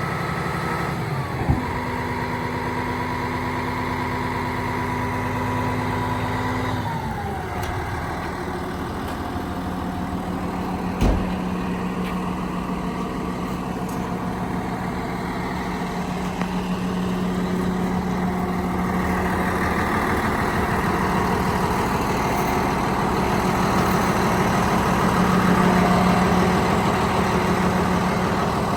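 Komatsu D85PX-18 bulldozer's diesel engine running. Its pitch steps down about a second in and again around seven seconds in, then it settles to a steady low hum that grows a little louder in the second half. There are two sharp knocks, one near the start and one about eleven seconds in.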